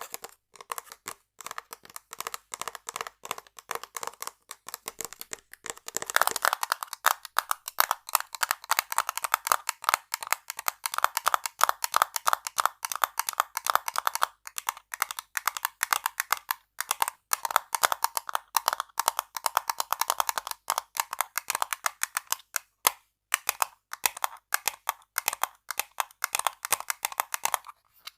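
Rapid tapping on hard objects: a dense stream of sharp clicks, many per second, getting louder and busier about six seconds in, with a couple of brief pauses.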